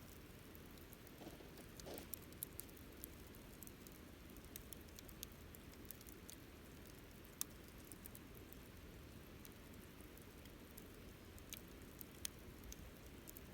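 Wood campfire crackling: scattered sharp snaps and pops over a faint, steady low hiss of burning.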